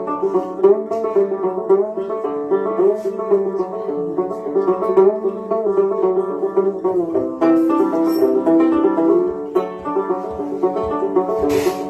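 Gourd banjo playing an old-time instrumental passage of quick plucked notes over a steady drone, with one note sliding up about halfway through.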